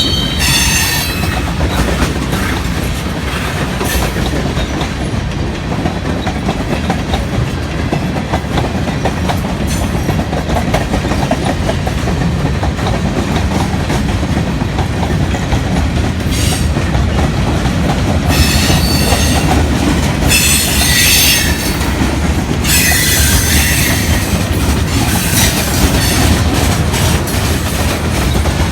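Freight cars rolling past: a steady rumble and clatter of wheels on rail, with high-pitched wheel flange squeal breaking out at the start and again in stretches about two-thirds of the way through.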